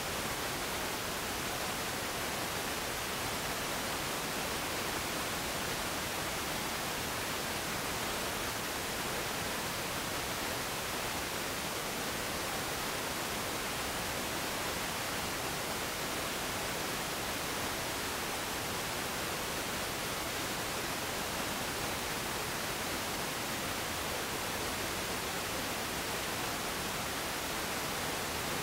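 Steady, even hiss like static from an open audio line, unchanging throughout, with no engine or other sound standing out.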